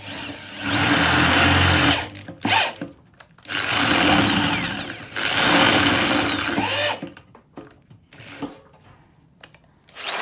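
Power drill boring holes in a fuel tank, running in two spells, one of about a second and a half and one of about three and a half seconds, with a short blip between them. Its whine rises as it spins up and falls as it stops.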